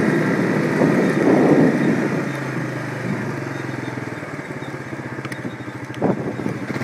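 Quad (ATV) engine running on the move, loud and rough for the first two seconds, then settling to a lower, steady note as it eases off. A single sharp knock about six seconds in.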